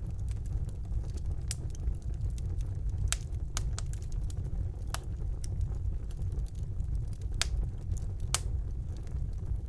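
Wood fire burning in a fireplace: a steady low rumble from the flames with sharp crackles and pops at irregular intervals, about one every second or two.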